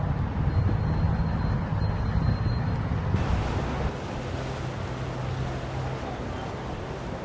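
Motorboat engines running, a low steady hum, with wind and water noise. The engine sound drops in level about four seconds in.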